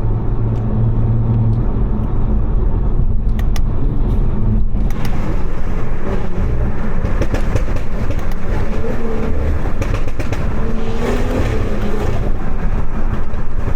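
Stage 2 tuned BMW 540i's B58 turbocharged inline-six running while driving, over steady tyre and road noise; the engine note climbs and shifts in pitch around the middle of the stretch as the car accelerates.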